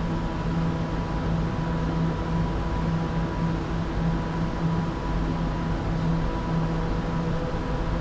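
Electric train running through the station: a steady rumble and hiss with a low hum that pulses on and off.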